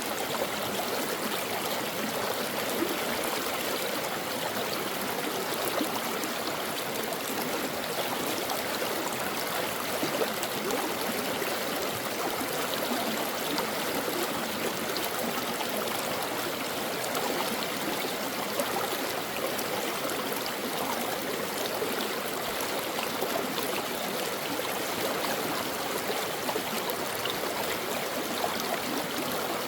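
A brook flowing: a steady, even rush of running water with no break or change.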